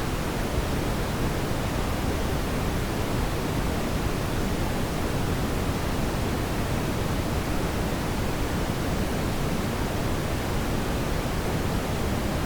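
Brown noise: a steady, even rushing hiss with most of its weight in the deep low end, unchanging throughout.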